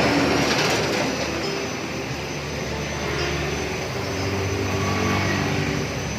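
A steady, engine-like low rumble with a haze of background noise, unbroken throughout.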